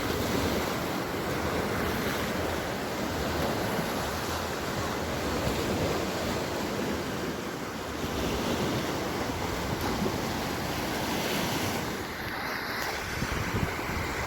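Sea waves breaking and washing up on the beach in a steady surf, with wind on the microphone.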